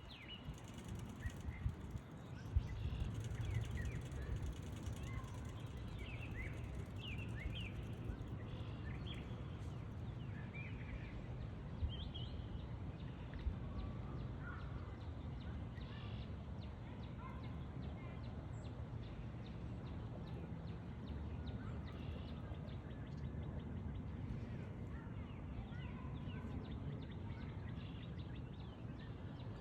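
Outdoor ambience: a steady low background rumble with scattered short chirps of small birds throughout.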